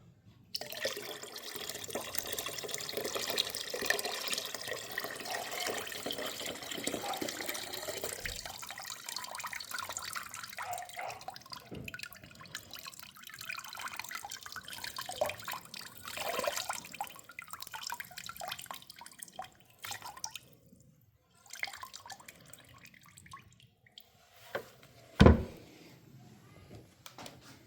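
Rinse water draining out of a lawn tractor's fuel tank: a steady pouring stream for the first several seconds that dwindles to intermittent trickles and drips. A single sharp knock near the end.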